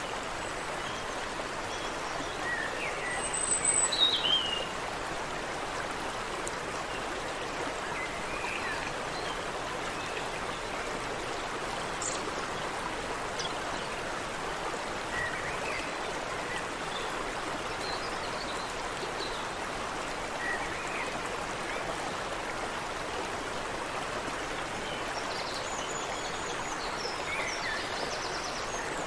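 Steady rushing of water in a small stream, with scattered short bird chirps over it. A louder bird call comes about four seconds in, and a cluster of chirps near the end.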